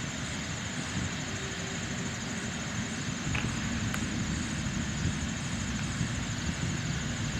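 Steady low engine rumble with a faint, steady high-pitched whine.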